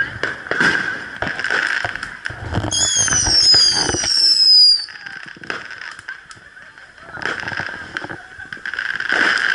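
Fireworks popping and crackling, with several whistling fireworks screaming at once and gliding down in pitch from about three seconds in; the bangs thin out after the whistles cut off and build up again near the end.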